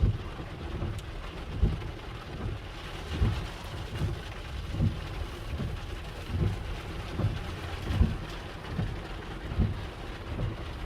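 Heavy rain falling, with a low thump repeating evenly a bit more than once a second.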